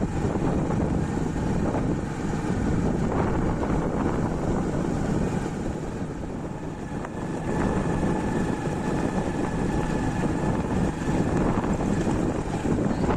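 Steady rush of rain with wind buffeting the microphone, dipping a little about halfway before picking up again.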